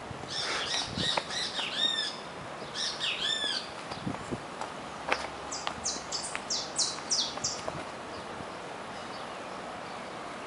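Birds singing: two bursts of quick, arching chirps in the first few seconds, then a run of short, very high notes about six to seven seconds in.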